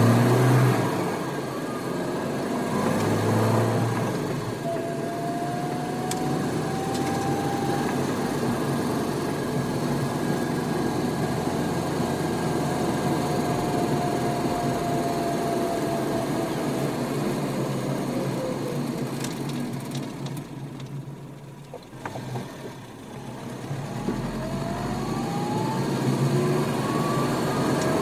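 Sports car engine heard from inside the cabin while driving, with bursts of throttle early on. Its pitch holds for a long stretch, the sound drops away briefly a little past two-thirds of the way through, as when easing off the throttle, then climbs again as the car accelerates.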